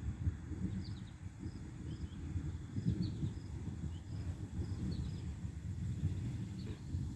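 Outdoor ambience with an uneven low rumble of wind on the microphone, and scattered short high chirps from small wildlife every second or so.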